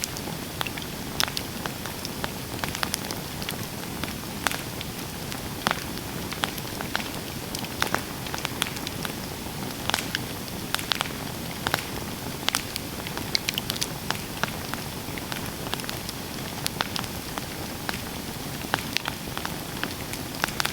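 Campfire burning: a steady low hiss of flame with frequent, irregular sharp crackles and pops from the burning wood.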